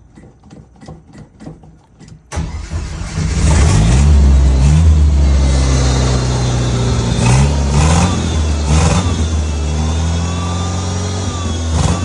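Light regular ticking at about four a second, then a vehicle engine suddenly starts a couple of seconds in and keeps running, revved up and down a few times.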